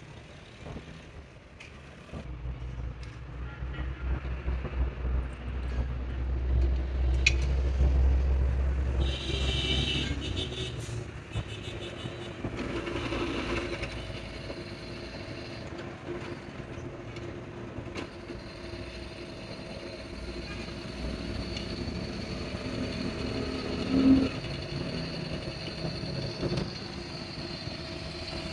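A motor vehicle's engine rumbling, building up over the first several seconds and fading away after about ten, with scattered clicks and a single sharp knock near the end.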